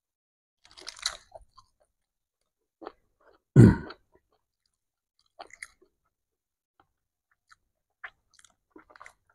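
Close-up eating sounds: chewing and crunching as nasi Padang is eaten by hand from a cardboard box, with a few short rustles and clicks from fingers in the box. A single loud, low thump comes about three and a half seconds in.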